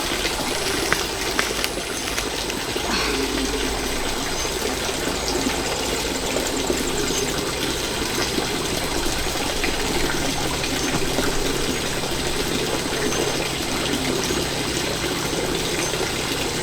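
Water running steadily, a trickling stream.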